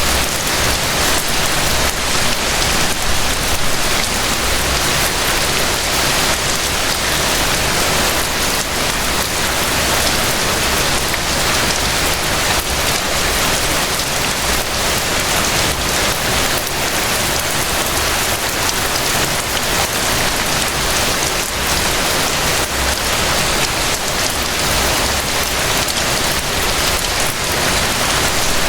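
Rain falling steadily: an even, dense hiss of many drops pattering on surfaces, with no change in strength.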